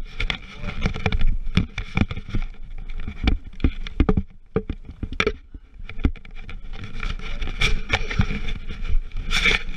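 Many irregular knocks and clicks over a steady low rumble, aboard a small fishing boat while trolling.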